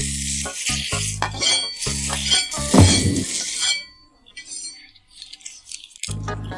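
Background music with a steady beat over food sizzling and being stirred in a pan, with light clinks. The sizzling and music break off about four seconds in and the music comes back near the end.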